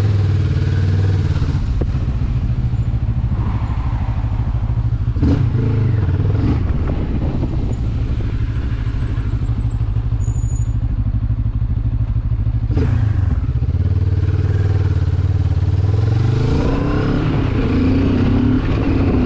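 Benelli TRK 702 parallel-twin engine running as the motorcycle is ridden, its note shifting in pitch and rising again near the end. A few short knocks sound about 5, 6.5 and 13 seconds in.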